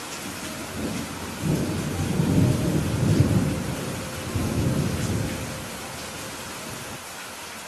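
Steady rain with a roll of thunder: a low rumble builds about a second in, swells twice and dies away after about five seconds, leaving the rain hiss.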